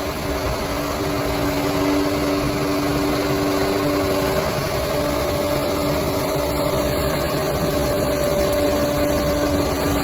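Bulldozer's diesel engine running steadily, its tone shifting slightly about halfway through.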